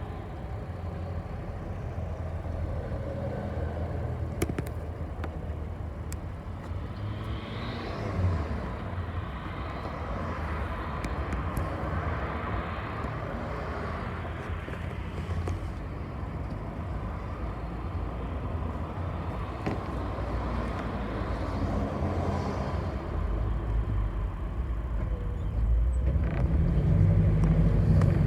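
A bus in motion heard from inside the cabin: steady low engine rumble and road noise, with a few light clicks, the engine growing louder over the last few seconds.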